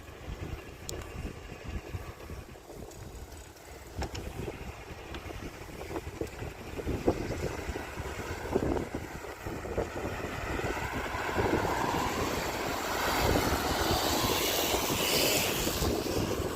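Wind buffeting the microphone of a riding bicycle's camera, with a few light rattles and clicks. In the second half a rushing sound grows steadily louder toward the end.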